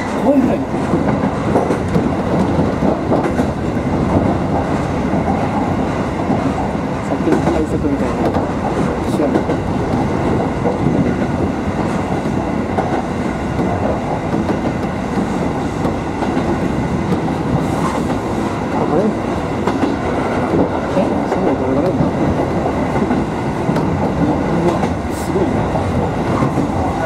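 Electric commuter train of the Takamatsu-Kotohira Electric Railroad running along at speed, heard from inside the front car: steady running noise of wheels on rails, with a few faint clicks.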